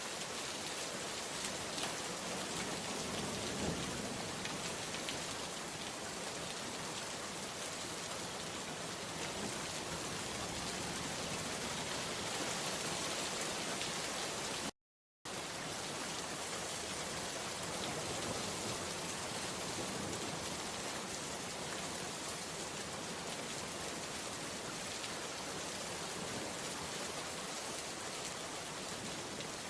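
Steady rain falling and pattering on surfaces, an even, unbroken hiss. It cuts out for about half a second midway, then carries on as before.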